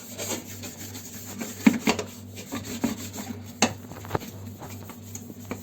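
Scrubbing the cleaner-sprayed inside of a Tornado dishwasher: irregular rubbing strokes, with a few sharp knocks.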